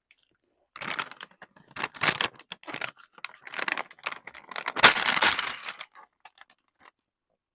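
Plastic snack wrapper being handled and torn open, a run of irregular crinkling and crackling with the loudest rip about five seconds in.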